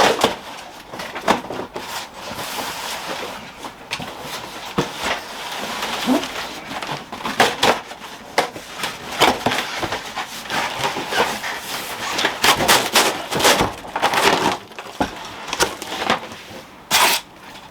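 Packaging being handled and pulled off a boxed fridge: polystyrene and cardboard scraping and rustling, with many irregular knocks and clicks.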